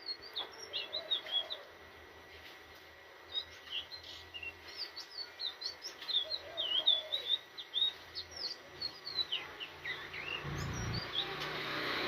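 Indigo flycatcher singing: several runs of quick, high, twisting chirping notes. A brief low thump comes near the end.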